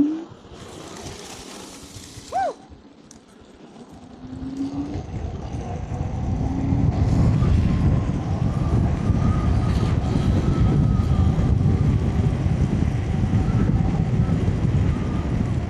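Wind rushing over the camera microphone on a moving electric scooter, building from about four seconds in as the scooter picks up speed and then staying loud. Before it there is a short hiss and a brief high squeak.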